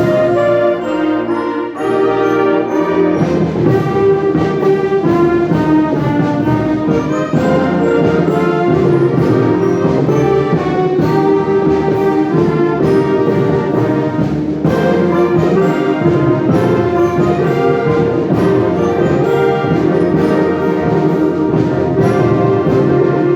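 Concert wind band playing, with brass prominent over sustained chords and a moving melody.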